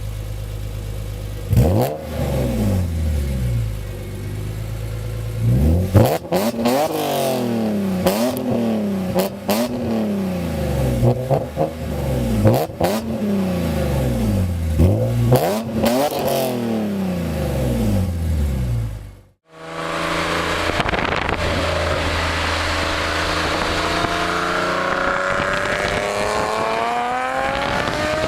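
BMW E46 exhaust: the engine idles, then is revved hard about five times in a row, each rev falling back with sharp exhaust crackles. After a cut, a car accelerates under load, its engine note climbing steadily.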